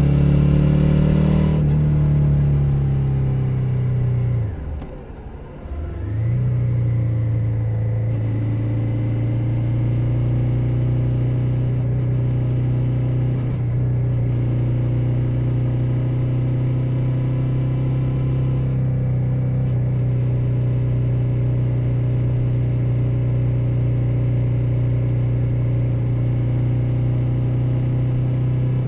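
2021 Suzuki SV 650's V-twin engine running under load. About four seconds in, the revs fall away and the sound dips briefly. It then settles into a steady cruise at lower, constant revs.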